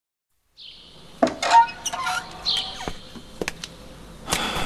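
Birds chirping, each call a short falling chirp, heard twice, over quiet outdoor ambience that starts about half a second in. There are several sharp clicks and knocks mixed in.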